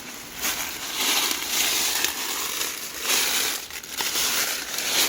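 Crunching and rustling underfoot while walking through a junkyard, coming in uneven swells.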